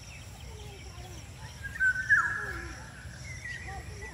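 Small birds chirping and calling over a steady low background rumble, with one loud, high-pitched drawn-out call about two seconds in.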